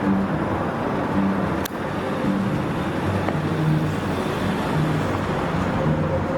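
Steady road and engine noise of a car driving, with one sharp click about a second and a half in.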